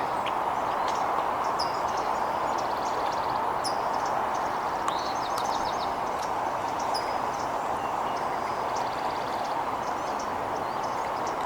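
Small songbirds giving scattered high chirps and a few short, rapid chattering calls over a steady rushing background noise.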